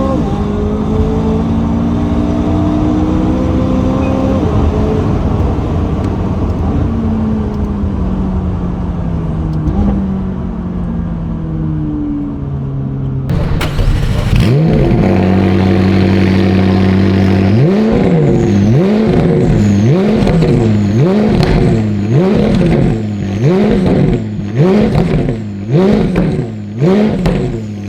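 Tuned McLaren 570S twin-turbo V8 with a RYFT full exhaust and catless downpipe. For the first half the engine note falls in pitch as the car slows, then the sound cuts abruptly to the engine idling. The engine is then revved repeatedly, about one quick rise and fall of revs a second.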